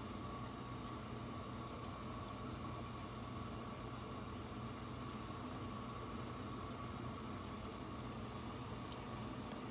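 Water heating in a pan, a faint steady hiss of near-simmering water, with a steady electrical hum underneath.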